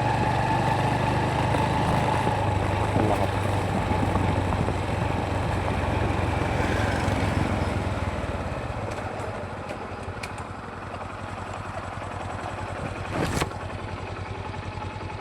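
A vehicle engine running steadily, growing quieter about halfway through; a single sharp knock near the end.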